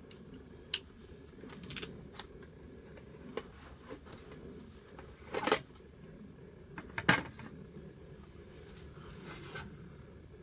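Scattered sharp clicks and knocks over a low steady background, the loudest two past the middle.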